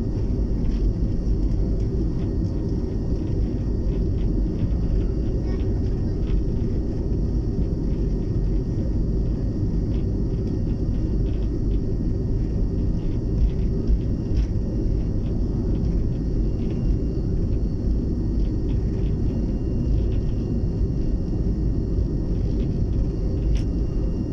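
British Aerospace BAe 146-200 airliner's four turbofan engines running with a steady low rumble and a faint, steady whine above it, with small scattered clicks.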